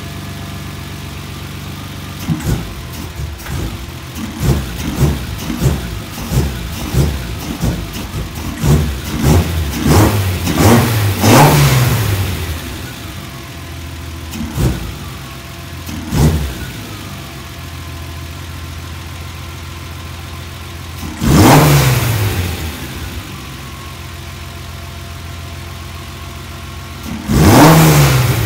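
BMW E30 inline-six on individual throttle bodies idling, then revved: a quick string of short throttle blips, two small single blips, and two bigger revs that each fall back to idle.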